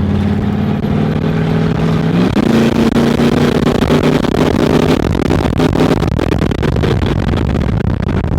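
Cadillac engine of a 1930 rat rod running while driving, heard from on board; its pitch steps up and it gets louder a little over two seconds in as the car accelerates, then holds steady.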